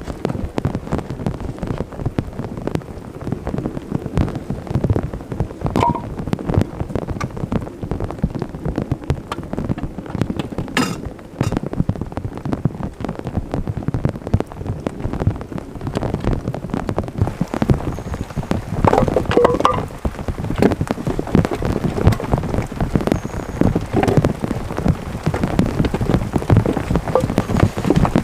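Heavy rain falling, a dense patter of drops striking a surface close to the microphone.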